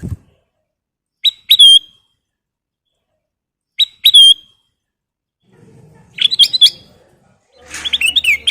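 Kutilang emas bulbul singing: two short, loud whistled phrases, each a quick pair of clipped notes ending in a curling whistle, then busier, faster chattering phrases near the end.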